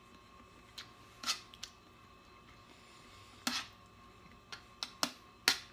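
Close-miked eating of crispy fried chicken: a string of short, crisp crunches and mouth clicks at irregular intervals.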